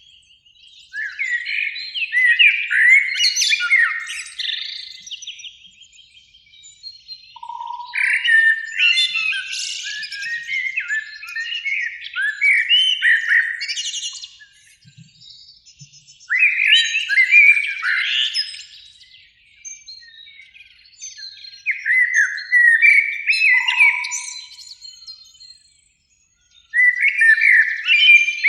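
Common blackbird singing: a run of separate warbling, fluting phrases, each a few seconds long, with short pauses between them.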